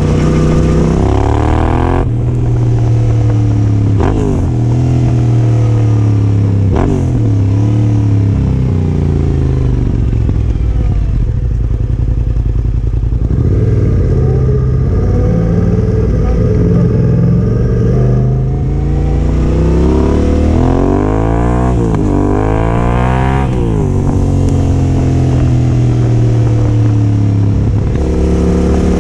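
Yamaha Ténéré 700's parallel-twin engine running through a Yoshimura R12 exhaust while riding, its note rising and falling again and again as the throttle opens and closes, with a cluster of quick revs about twenty seconds in.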